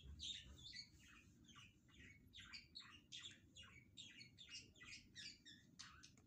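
Faint, rapid chirping of small birds, several short calls a second, over a low steady rumble; the chirping stops abruptly near the end.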